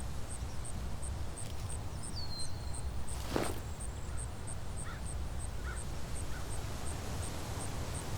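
Outdoor woodland ambience: a steady low rumble with scattered bird calls, including a short falling whistle about two seconds in and a brief harsh call about three seconds in.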